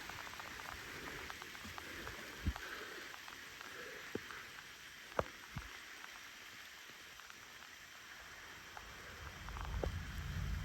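Light rain falling, with a few single drops tapping sharply close by. A low rumble builds near the end.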